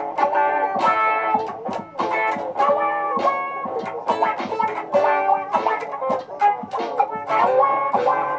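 Layered guitar loops: many plucked guitar notes in quick succession over sustained chords, built up with a looper.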